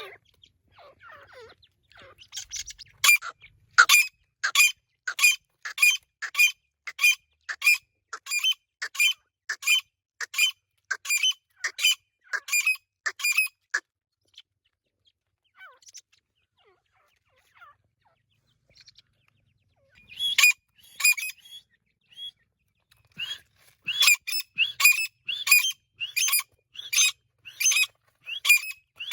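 Irani teetar, a partridge-type game bird, calling: a long run of loud, sharp repeated notes at about two a second, a pause of several seconds, then a second run of calls.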